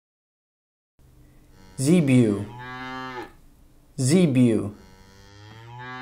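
A cow mooing twice, given as the zebu's call: a short moo about two and a half seconds in, then a longer moo that swells toward the end.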